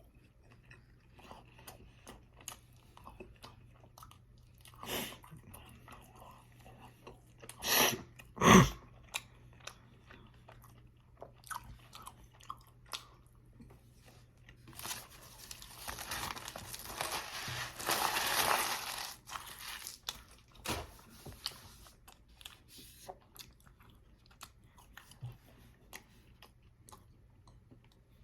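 Close-miked chewing and biting of a fast-food burger, with many small wet mouth clicks, two loud sharp bites about eight seconds in, and a longer noisy stretch of several seconds from about fifteen seconds in. A faint low steady hum runs underneath.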